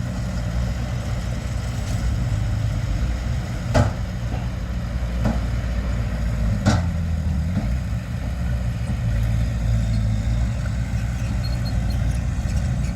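Heavy diesel engine of earthmoving machinery running steadily at a low rumble, with a couple of sharp knocks about four and seven seconds in.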